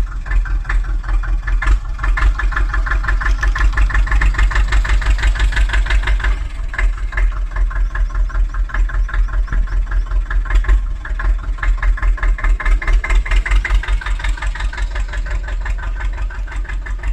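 Diesel tractor engine running steadily with a regular, rapid pulsing beat.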